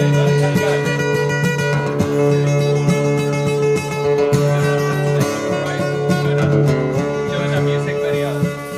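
Acoustic guitar strumming chords in a folk song, without singing.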